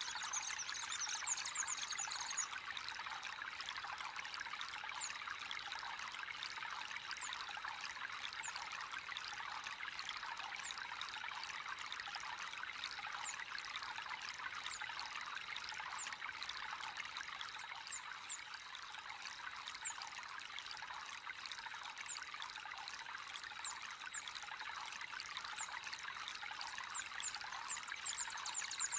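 Water trickling and splashing steadily into a fish pond. A faint, short, high chirp recurs about once a second over it.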